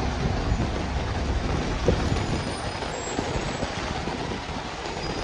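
Heavy road traffic on a wet city street, a large vehicle rumbling close by over a steady wash of noise, with one short sharp knock about two seconds in.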